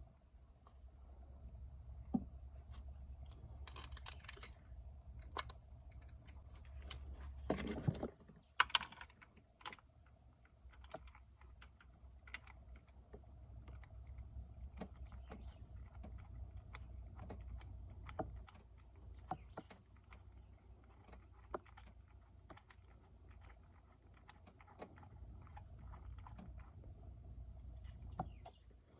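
Faint, irregular clicks and clinks of hand tools and parts being handled under the hood, over a steady low hum. A brief rising whir comes about a quarter of the way through.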